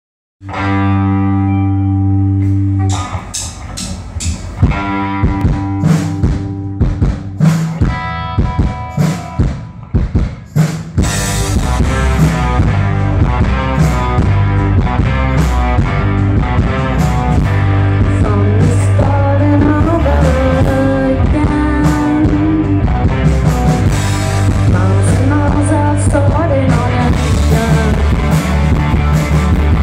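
Live indie-pop band with electric guitar and drum kit playing a song. It opens on a held chord, goes into separate stabbing hits, and the full band comes in about eleven seconds in, with a voice singing over it later on.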